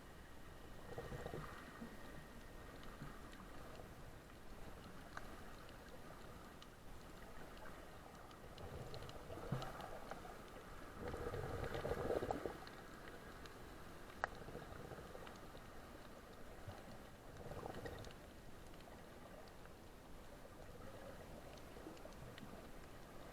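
Faint, muffled water noise with a few louder swells and scattered small clicks.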